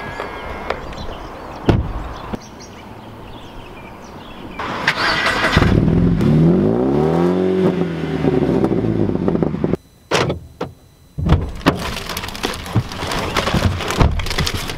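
A car driving. Its engine revs up and then eases back once in the middle, across several abruptly cut short clips, with a brief drop in sound shortly after the revving.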